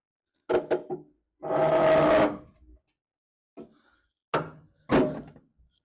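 Clunks and knocks with a scraping rub lasting about a second, as a VW Mk1 Rabbit's 1.6 L diesel engine is lowered out of the car by hand, shifting against its supports. Three more knocks come in the second half.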